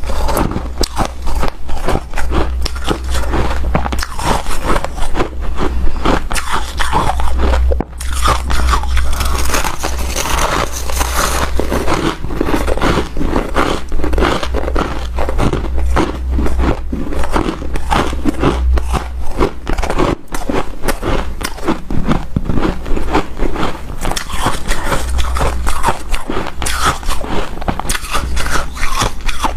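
Close-up biting and chewing of hard, snow-like powdered ice: dense, continuous crunching with short gaps between bites, over a steady low hum.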